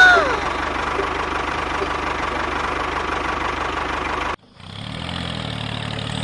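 A small motor of the mini tractor running steadily, with a thin constant whine. About four seconds in the sound cuts off abruptly and a lower steady hum takes over.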